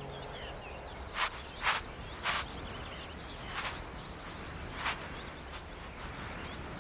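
Outdoor mountain ambience with small birds chirping steadily in the background, and about five short noisy bursts, each a fraction of a second, in the first five seconds.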